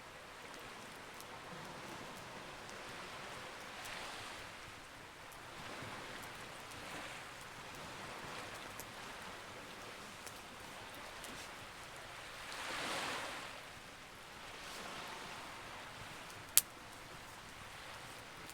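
Campfire crackling with occasional sharp pops, over a wash of sea waves that swell and fade every couple of seconds. The biggest surge comes about two-thirds of the way through, and a loud single pop follows near the end.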